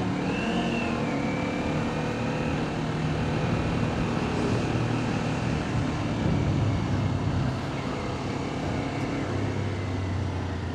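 Kawasaki Ninja 400 parallel-twin motorcycle running on the road, with wind and road noise. Near the end it settles into a steady low idle.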